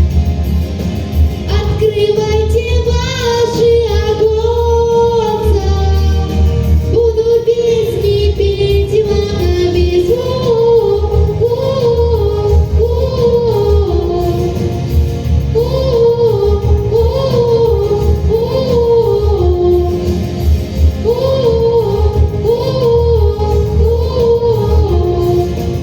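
Wordless singing over a pop backing track with a steady bass beat. From about ten seconds in, a short rising-and-falling melodic phrase repeats again and again.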